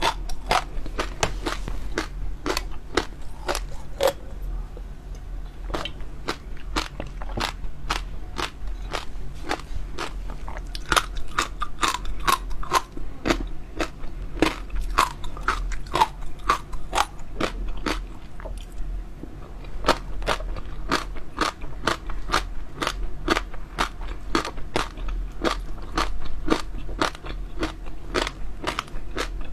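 Close-miked eating of crunchy jelly pearls: a rapid, irregular run of crisp crunches and small pops as they are bitten and chewed.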